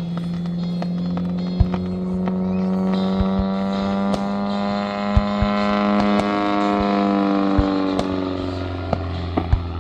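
A steady motor or propeller hum with many overtones, rising a little in pitch and then falling and fading near the end, with scattered sharp firework pops.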